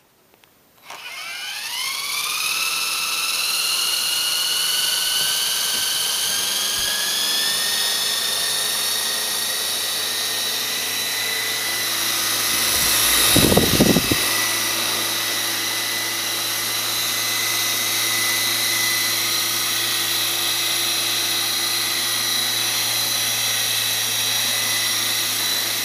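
Small electric RC helicopter, an Esky Hunter, spinning up about a second in with a rising whine, then running at steady speed with a high-pitched whine. A brief, louder rushing burst comes about halfway through.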